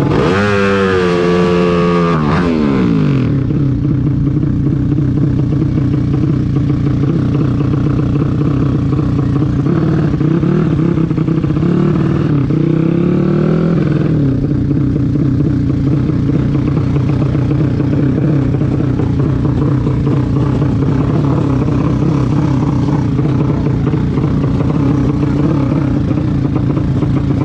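A motor vehicle's engine running steadily under load. The revs drop sharply in the first few seconds, then rise and fall again about halfway through.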